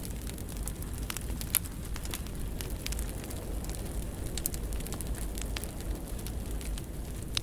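Wood fire burning in a fireplace: a steady low rumble with frequent small crackles and sharp pops, one pop standing out about a second and a half in.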